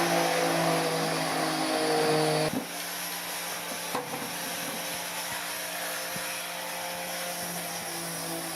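A small electric motor running with a steady whine, switched off about two and a half seconds in; a quieter steady hum carries on after it.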